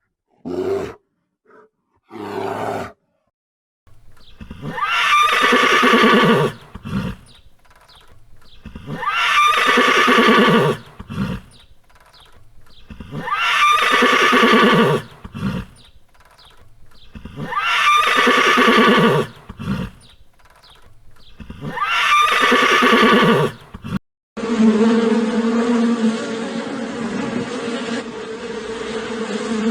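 Horse neighing: five long whinnies, each falling in pitch, about four seconds apart, after three short calls at the start. Near the end it cuts to a steady buzzing.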